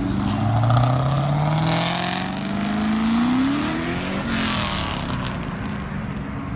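A car accelerating hard at a car meet, its engine note climbing steadily in pitch for about four seconds and then dropping off.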